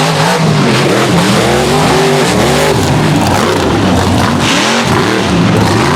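Mega truck engines revving hard, their pitch rising and falling again and again as the throttles are worked, with more than one engine heard at once.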